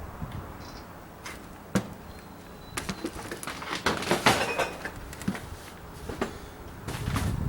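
Irregular sharp clicks and knocks that bunch into a brief clatter about halfway through.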